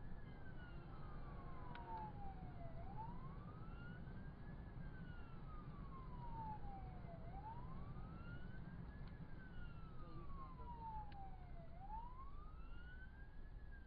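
Police car siren in its wail mode, rising and falling slowly, about one rise and fall every four and a half seconds, over the steady low rumble of the car driving at speed.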